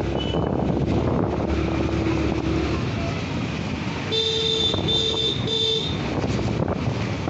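Wind buffeting the microphone and road noise on a moving scooter, with a vehicle horn honking three short times about four seconds in.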